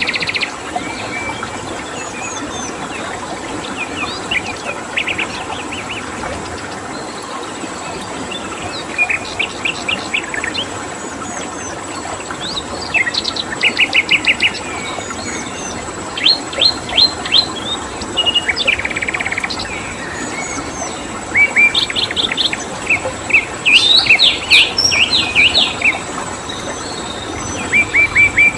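Wild songbirds chirping in short, rapid runs of high notes, phrase after phrase with brief pauses, over the steady rush of a river and a thin, constant high insect trill.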